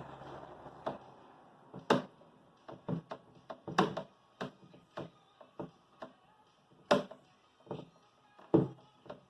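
Irregular sharp clicks and knocks, about one or two a second with a few louder ones, from small tools and parts being handled, with a short hiss in the first second.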